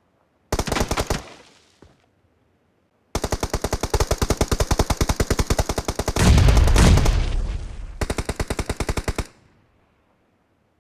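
Video-game automatic gunfire: a short rapid burst about half a second in, then a long sustained burst of rapid shots, roughly ten a second, from about three seconds in to about nine. A heavier, deeper blast lands in the middle of the long burst.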